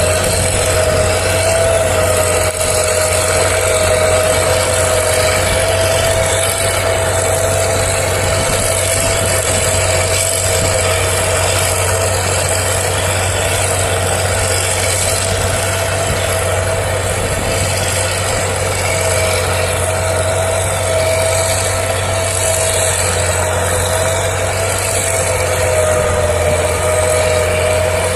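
TT-4 tracked logging skidder's diesel engine running steadily, with a steady whining tone over the engine note.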